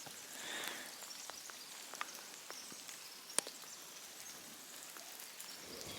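Steady rain falling in a forest, a faint even hiss with scattered drops ticking, one sharper tap about three and a half seconds in.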